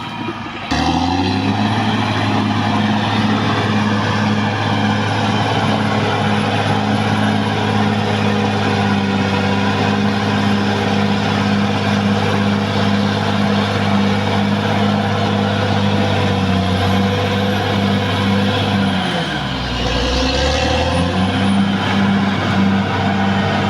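Caterpillar D6R XL bulldozer's diesel engine running at steady revs with a faint high whistle above it. It comes in abruptly about a second in. Near the end the engine speed drops sharply and then picks back up.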